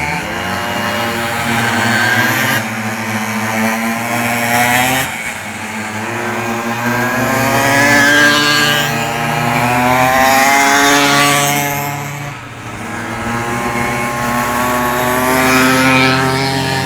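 Several pocket bikes' small two-stroke engines racing at once, their high buzzing notes rising and falling as they rev, with the sound swelling and fading as the bikes pass.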